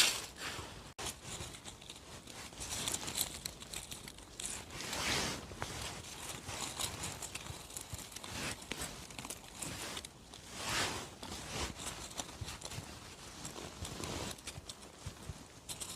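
Irregular rustling and crinkling of leaf litter on the forest floor, coming in swells every second or two, as mushrooms are picked by hand.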